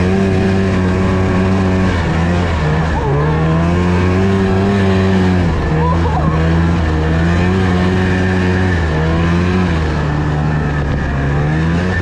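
Snowmobile engine running continuously, its pitch rising and falling every few seconds as the throttle is opened and eased off.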